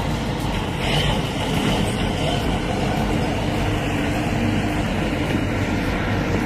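A tractor engine running steadily, its level holding even throughout.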